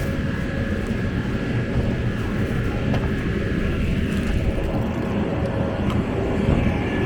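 Steady low outdoor rumble with a few faint steady tones in it.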